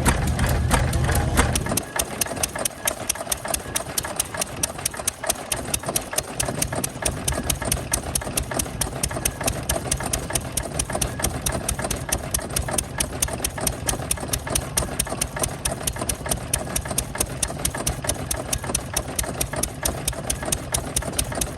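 Small engine running at a steady speed, with an even, rapid beat of sharp knocks. A low hum underneath drops out about two seconds in and returns a few seconds later.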